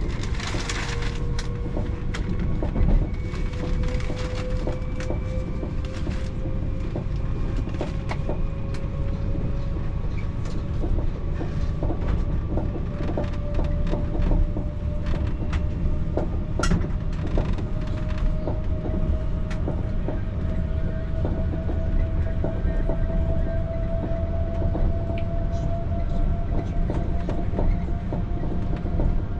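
TER regional train running on the rails: a steady low rumble with a whine that slowly rises in pitch, and scattered clicks from the wheels on the track.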